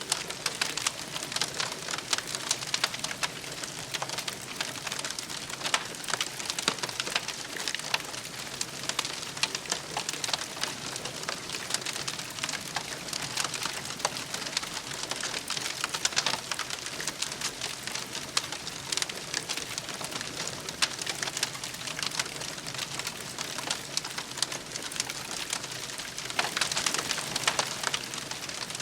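Wood campfire burning, crackling and popping steadily with many small snaps, a little busier near the end.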